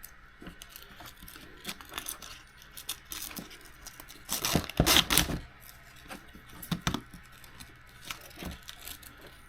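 Irregular clicks, knocks and rattles of small plastic and metal RC car parts being handled on a workbench, with a louder flurry of knocks about halfway through.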